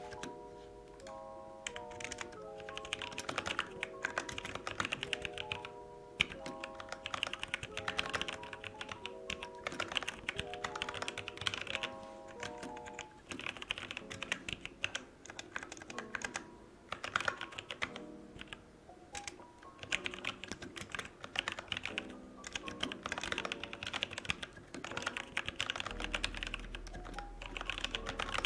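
Rapid typing on a computer keyboard, in bursts of fast key clicks with short pauses between them, over background music with a repeating melody.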